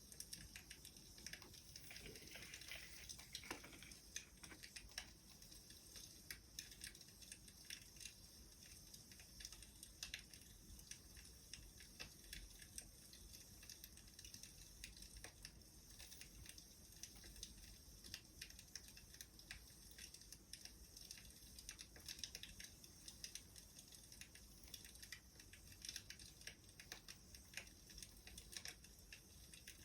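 Wood fire crackling faintly: a steady scatter of small pops and snaps over a low hiss.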